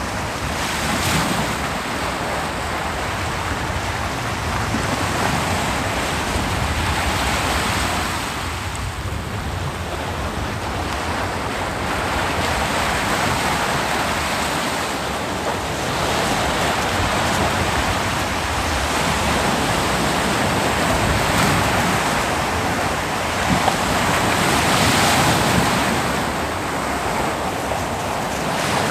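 Ocean surf breaking on a beach: a continuous wash of waves that swells and eases every few seconds, with several louder surges as waves crash.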